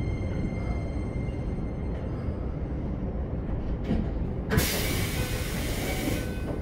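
Interior running sound of a Keikyu 1500-series electric train rolling slowly to a stop, a steady low rumble. About four and a half seconds in, a sudden loud hiss of air starts and lasts about two seconds, typical of the air brakes as the train halts at the platform.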